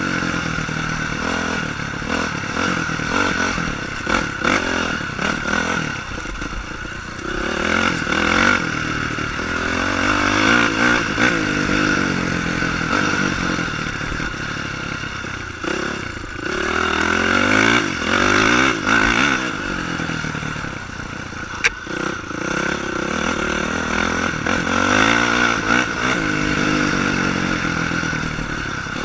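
Honda CRF450 dirt bike's four-stroke single-cylinder engine under hard riding, its pitch climbing and dropping back again and again as the throttle is worked. One sharp click about three-quarters of the way through.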